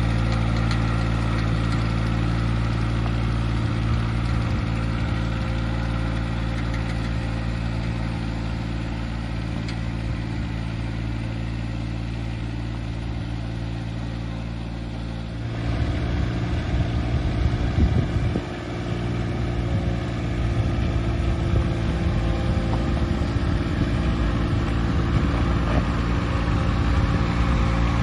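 Tractor engine running steadily as the tractor is driven in high gear. It fades a little at first, then about halfway through turns suddenly louder and rougher, with uneven knocking for a few seconds before settling at the louder level.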